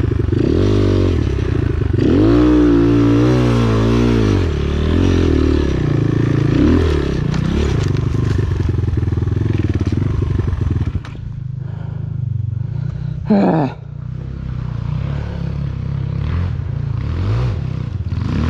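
Enduro motorcycle engine revving up and down repeatedly while riding hard. About 11 seconds in it drops to a lower, steadier running note, with one quick sharp rev soon after.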